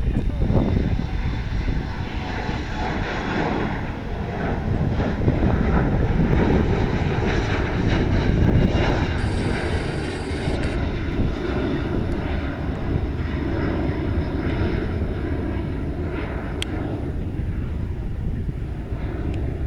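Airliner engines running loud and steady as a plane passes: a deep, continuous rumble with a faint whine.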